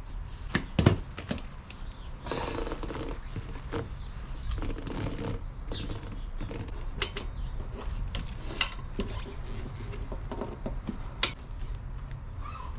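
Irregular metallic knocks, clicks and scraping from tools working an old front tyre off a motorcycle wheel rim by hand, with a few short strained grunts.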